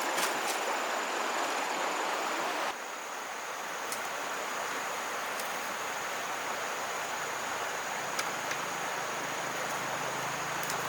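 Outdoor rural ambience: a steady hiss of background noise with a thin, high, constant insect-like tone and a few faint clicks. The sound drops abruptly a little under three seconds in, as at a cut.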